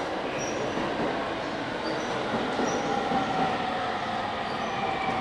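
A JR East E257 series electric train pulling into the platform, its cars rolling past with a steady rumble and a faint electric motor whine that falls slowly in pitch as the train brakes.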